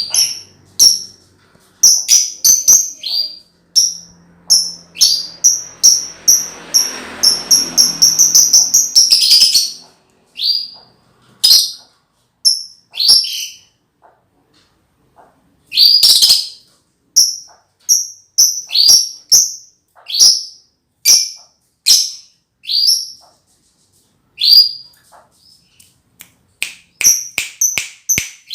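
Young josan lovebird practising its ngekek song: a string of short, sharp high chirps, running together into a fast burst about nine seconds in, broken by short pauses.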